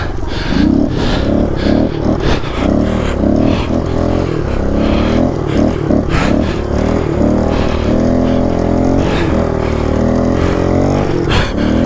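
Kawasaki KLX 110 pit bike's small single-cylinder four-stroke engine being ridden hard, revving up and down again and again as the throttle is worked, with a few short noisy bursts over it.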